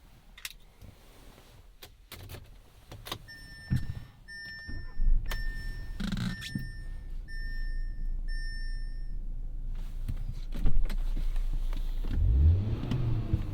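Inside a 2017 Audi A3: scattered clicks and knocks from the cabin, then a dashboard warning chime that repeats about twice a second for several seconds. Near the end the 2.0-litre turbocharged four-cylinder starts, its revs rising and then settling.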